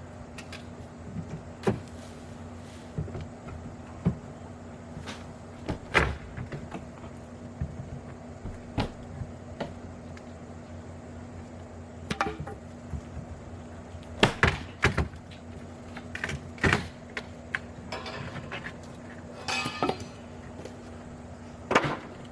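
Irregular knocks and clunks from hand work on an old window opening, with a cluster of sharp knocks in the middle and two short rattling scrapes later. A steady low hum runs underneath.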